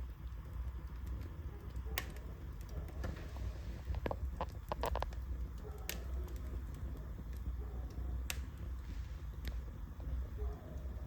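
Wood fire burning in a fireplace: a steady low rumble of flames with scattered sharp crackles and pops, a quick cluster of them about four to five seconds in.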